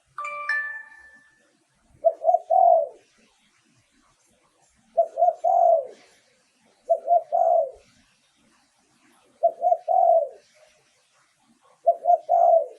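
Spotted dove cooing: five phrases of three or four low coo notes each, a couple of seconds apart. A brief higher whistle-like chirp comes at the very start.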